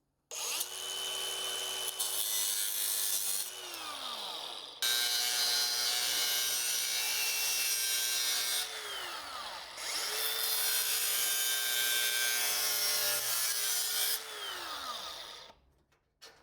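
Handheld power tool cutting metal, run in three long bursts. Each burst has a steady motor whine under a harsh cutting noise, and each ends with the whine falling away as the motor spins down.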